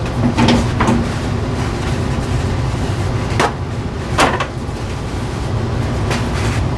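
A steady low rumble with a few sharp knocks and clatters, two close together just after the start and two more around three and four seconds in.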